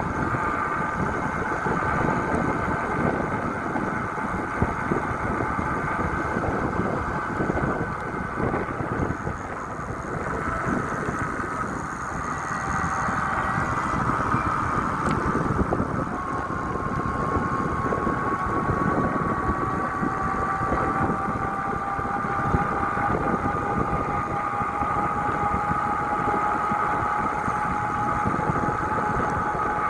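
A motor vehicle on the move: engine running under steady road and wind noise, with a thin whine that climbs slowly in pitch through the second half.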